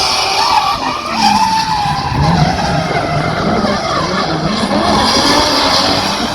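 Drift cars sliding under power: engines revving up and down with the pitch wavering, over steady tyre skidding noise.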